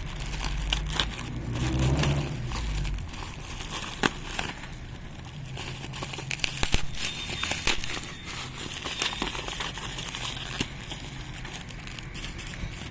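A courier parcel's packaging crinkling, crackling and rustling in the hands as it is opened. There are scattered sharp crackles, and a low rumble of handling in the first few seconds.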